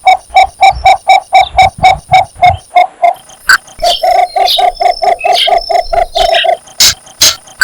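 Cinnamon bittern giving its mating call: runs of short, even croaks at about four a second. A first run stops about three seconds in, and a second begins about a second later. Two sharp clicks come near the end.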